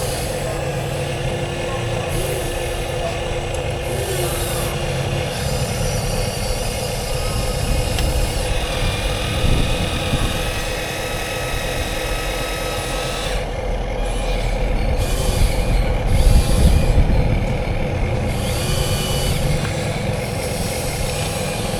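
Huina 1:14 scale RC construction machines running: a steady motor whine over a low, engine-like rumble, with a few higher tones coming and going. It gets louder for a few seconds about three quarters of the way through.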